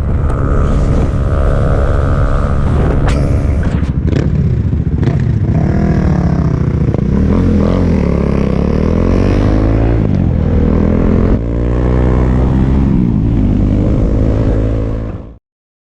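Motorcycle engine revving up and down as it is ridden, its pitch repeatedly climbing and falling, with wind noise. The sound cuts off suddenly near the end.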